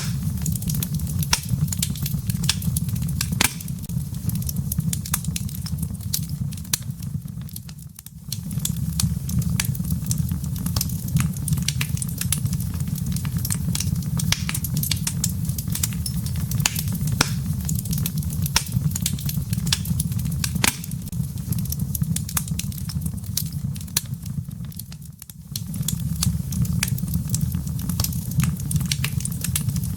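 Wood fire burning in a fireplace: a steady low rumble of flames with frequent sharp crackles and pops from the burning logs. The sound dips briefly twice.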